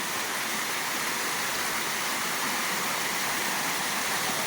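Steady rush of water pouring down a rocky waterfall cascade.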